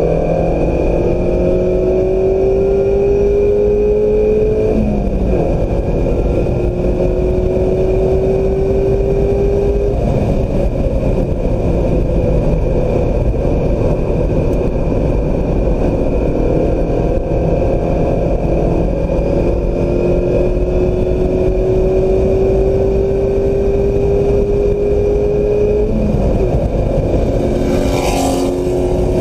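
2016 Mazda MX-5 Miata's 2.0-litre four-cylinder engine pulling hard on track, its pitch climbing and then dropping at an upshift about five seconds in, climbing again, holding steadier through the middle, then climbing to another shift near the end. A heavy rumble of wind and road noise runs underneath.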